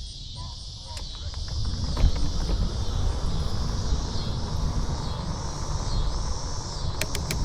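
Wind rumbling on the camera's microphone during a bike ride, growing louder about a second in, over a steady high chirring of insects that swells and fades about once a second. A few sharp clicks near the end.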